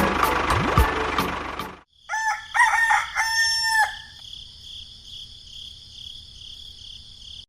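A rooster crowing, starting about two seconds in right after busy music cuts off abruptly, followed by a steady high-pitched whine.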